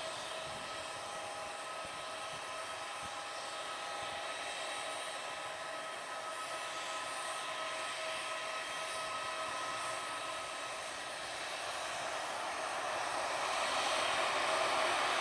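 Airliner's engines running: a steady rushing whine with several held tones, growing louder near the end.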